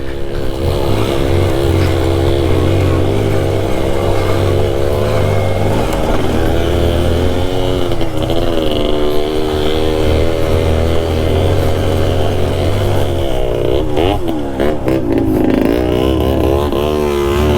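Yamaha RX two-stroke single-cylinder motorcycle engine being ridden under changing throttle, its note rising and falling continuously. It has a few quick drops and climbs in pitch near the end.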